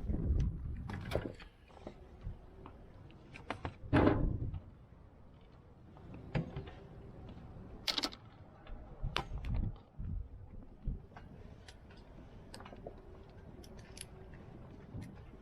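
Handling noises on a sailboat deck as fenders and gear are moved: scattered knocks and clicks, with a louder thump about four seconds in.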